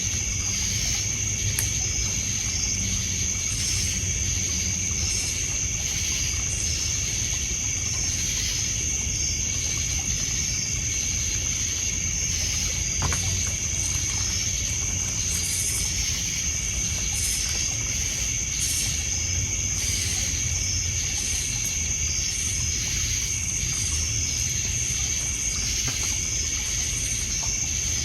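Crickets and other insects trilling steadily in one high continuous tone with pulsing chirps, over low water lapping on a pebble shore. A few sharp crackles come from the wood fire.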